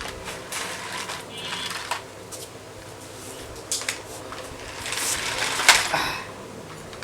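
Toy remote-control car's small electric motor whirring, with plastic clatters and clicks as it moves; a sharp click about five and a half seconds in is the loudest sound.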